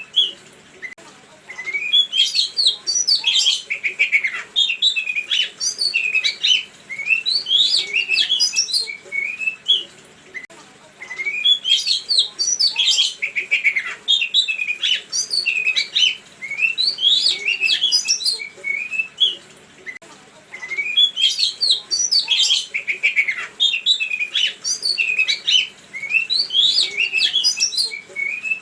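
Songbird singing a fast, varied run of high chirps, whistles and trills in bursts of a few seconds, with short pauses between. The same song passage comes back about every nine to ten seconds, like a looped recording.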